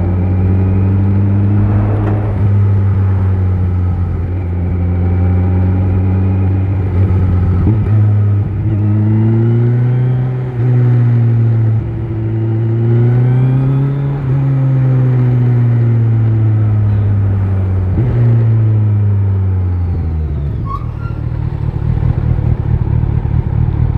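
Kawasaki Z900's inline-four through an Akrapovic exhaust, running at steady low revs, its pitch rising and falling gently a few times. About twenty seconds in the revs drop away and it settles into a lumpy, pulsing idle.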